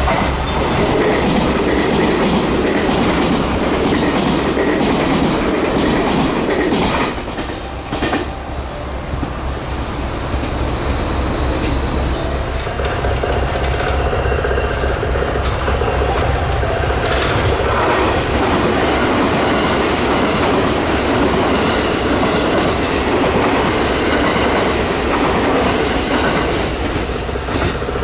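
Electric passenger train passing through at speed without stopping, a loud, continuous rumble of wheels on rail that dips briefly about seven seconds in.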